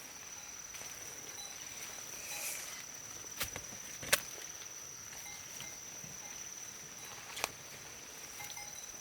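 A steady high-pitched insect trill, with three sharp clicks or knocks, the loudest about four seconds in.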